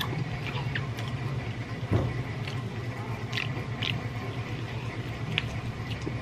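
Close mouth sounds of eating roast chicken by hand: chewing and lip smacking with scattered short, sharp clicks, over a steady low hum. A single dull knock about two seconds in.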